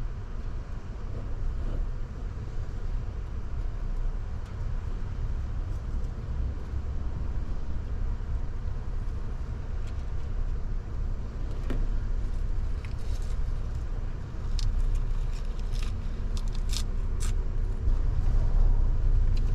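Steady low rumble of ocean surf and wind. A few light clicks and taps come about twelve to seventeen seconds in.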